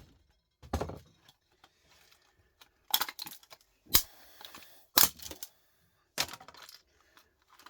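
Plastic casing of an electrical unit being broken open for scrap: about five separate sharp knocks and cracks, some followed by a short crackle of splitting plastic.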